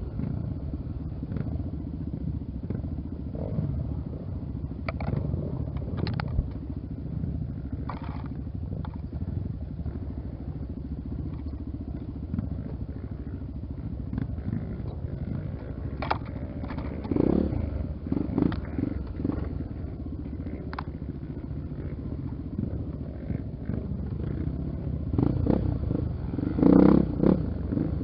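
Honda XR Tornado's single-cylinder four-stroke engine running steadily on a trail ride, with scattered knocks and clatter over rough ground. The engine surges louder briefly about two-thirds of the way in and again near the end.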